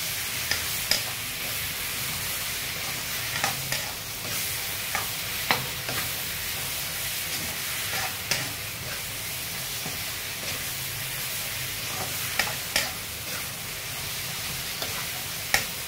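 Chopped onions and tomatoes sizzling in a metal kadai while a metal spatula stirs and scrapes them. Short sharp clinks of the spatula against the pan come every second or few.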